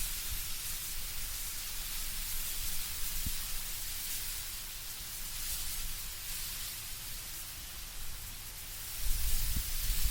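Wind moving through autumn trees, with leaves rustling overhead as a steady hiss that swells and eases in slow waves. A low rumble comes up near the end.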